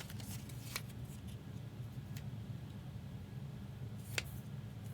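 Trading cards and their packaging being handled, giving a few light clicks over a steady low hum.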